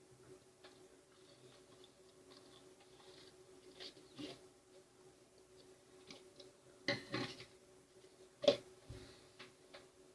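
Scattered light clicks and taps over a faint steady hum. The loudest tap comes about eight and a half seconds in, after a pair about seven seconds in.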